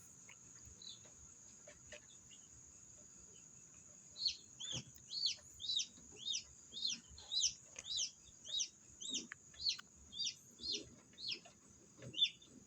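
Newly hatched chicks peeping, starting about four seconds in: a run of short, high, downward-sliding peeps, roughly two a second.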